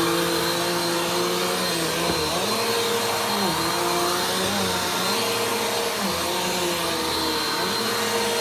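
Vacuum cleaner running steadily, its motor pitch dipping briefly several times as the load on it changes.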